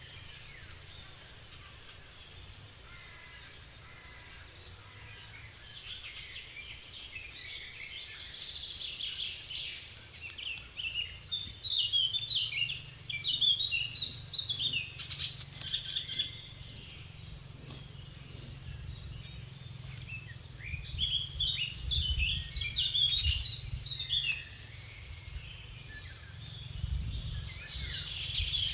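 Birds singing in bursts of rapid chirping phrases over a steady low rumble.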